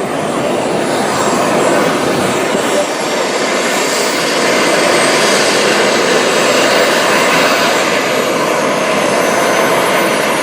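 Turbine engine of a radio-controlled scale model L-39 jet flying past: a steady jet rush that grows louder over the first two seconds, with a thin high whine that slides down in pitch near the end.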